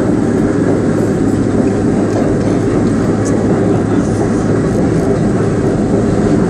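R32 subway train running along the track: a steady, loud rumble of wheels on rail with a steady low hum beneath it.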